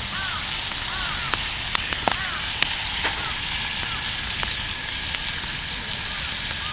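Meat sizzling on a grill over a wood fire, a steady hiss with scattered sharp pops and crackles.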